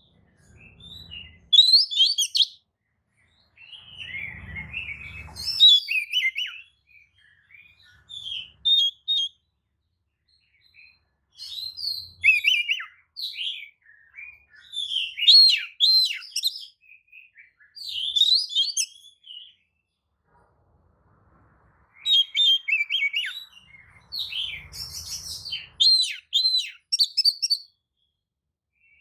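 Oriental magpie-robin singing in bursts of rapid, varied whistles and chirps with short pauses between them: the lively 'pancingan' song used to provoke other magpie-robins into answering. Faint low rumbles come in under the song a few times.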